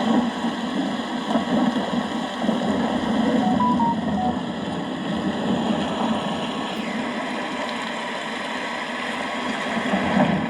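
Steady rain falling, an even, dense hiss with no sudden claps.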